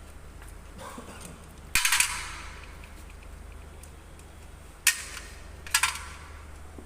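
Metal hand tools and engine parts clattering against metal three times during teardown work: a longer clatter about two seconds in, then two short sharp clanks near the end, over a steady low hum.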